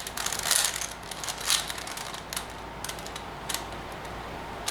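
A plastic 4x4 Rubik's Revenge cube being twisted by hand: irregular quick runs of clicks and clacks as its layers turn.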